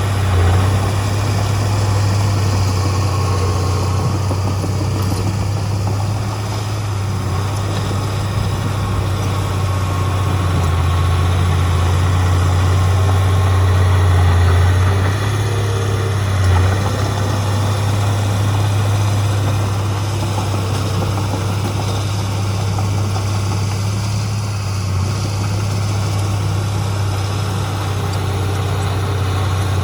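Heavy diesel engine of earthmoving equipment running steadily with a deep, low hum. It swells a little in level and eases off now and then.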